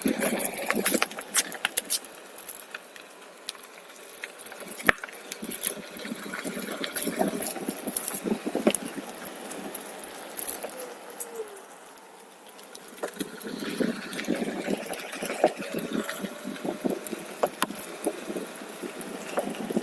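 Onewheel rolling over a rough trail surface: a steady irregular crackle of crunches, clicks and rattles, easing briefly a little past the middle before picking up again.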